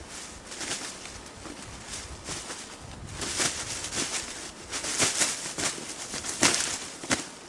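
Rustling and crunching in dry leaves on the forest floor: a run of irregular swishes, heavier from about three seconds in, with a sharp crunch near the end.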